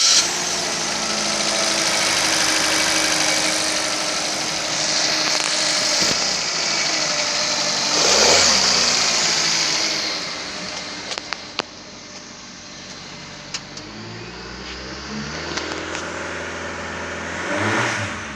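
Suzuki Ignis 1.2-litre petrol engine running on test, blipped briefly about eight seconds in, then settling to a quieter idle. It is revved gently again near the end, with a few sharp clicks in between.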